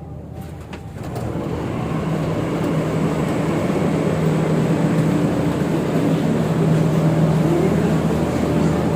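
Delhi Metro train pulling away from the platform, heard from inside the car: the running noise rises about a second in and settles into a steady hum with a motor whine.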